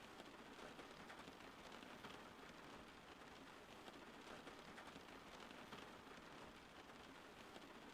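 Faint, steady rain: an even hiss with a fine patter of drops.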